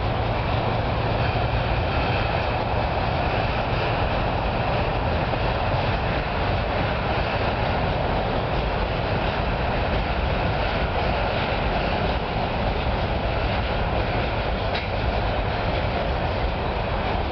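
Freight train's covered hopper cars and tank cars rolling across a railway bridge: a steady rumble of wheels on rail, with a couple of sharp clicks near the end.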